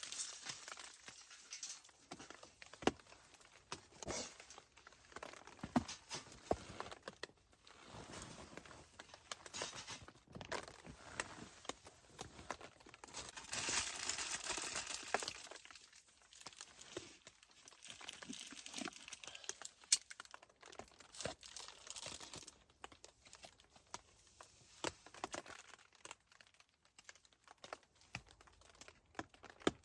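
Wood fire crackling, with scattered sharp pops, and bouts of crinkly rustling, the loudest about halfway through.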